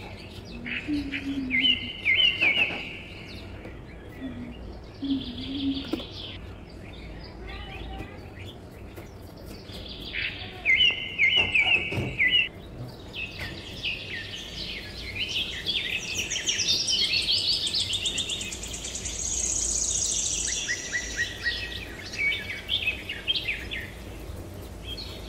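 Several birds chirping and calling in overlapping short, repeated phrases, with a long, fast, high trill in the middle, over a steady low background hum.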